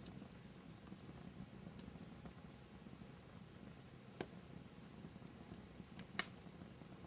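Fire in a fireplace crackling faintly and steadily, with two sharp pops, one about four seconds in and a louder one about two seconds later.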